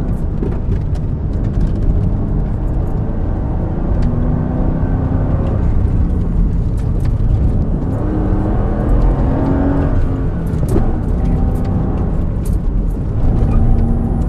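2004 Mercedes-Benz SL500's V8 pulling hard under race acceleration, its pitch climbing and then dropping back about three times.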